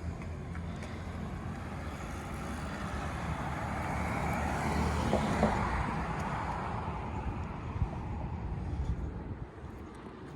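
1960 Triumph Bonneville T120's 650 cc parallel-twin engine running, growing louder to a peak about five seconds in and then fading, as when the bike is ridden past.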